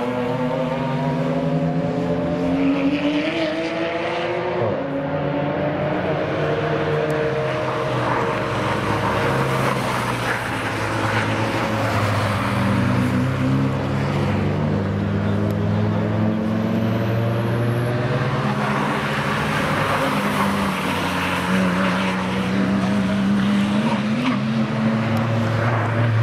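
Several cars passing in quick succession, their engine notes rising and falling and overlapping one another.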